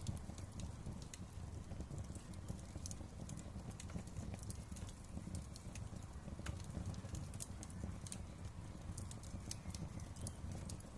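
Wood fire crackling, with frequent sharp little pops and snaps over a steady low rumble of the flames.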